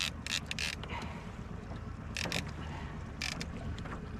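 Small boat's outboard motor running slow, a steady low drone, with wind on the microphone and several short sharp sounds scattered through it.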